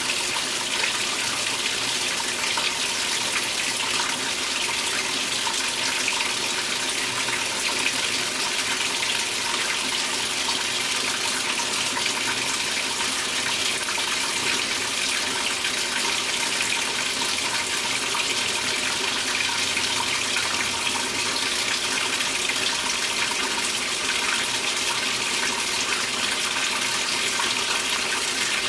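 Water pouring steadily into a Speed Queen top-load washer's tub as it fills, a continuous even gush.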